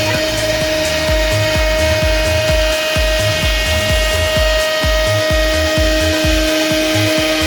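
CNC milling spindle running with a steady high whine, under background music with a pulsing bass line.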